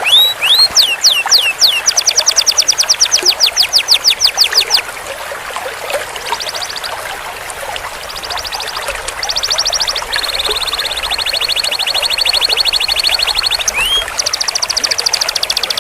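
Canary singing a series of fast rolls: rapid, even trills of repeated notes at several speeds and pitches, with a few rising whistled notes between them and one long steady trill about ten seconds in.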